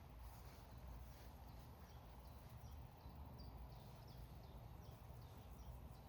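Near silence: faint outdoor ambience with a low rumble and a scattering of faint, short, high chirps.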